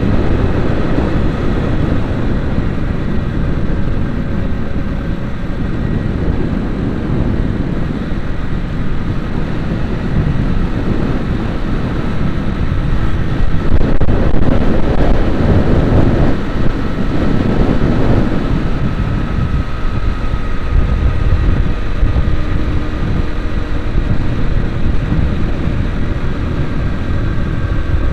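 A vehicle on the move: a steady run of engine and road noise, swelling louder for a few seconds past the middle.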